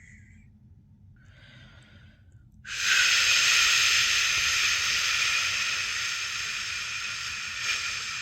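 A person's drawn-out "shhh" shushing sound of the kind used to lull a newborn to sleep. A shush trails off just after the start, a short soft one follows about a second in, then a loud, long shush begins near three seconds in and slowly fades.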